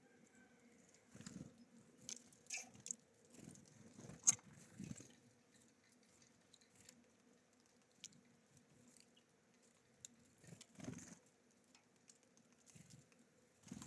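Small birds feeding at a bird feeder: irregular faint pecking taps, scrapes and crunches of seed being cracked, busiest in the first few seconds and again near the end.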